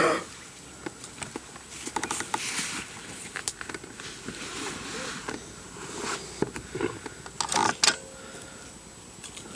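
Irregular rustling, crackling and scraping, with a louder cluster of crackles near the end and a faint steady high whine underneath.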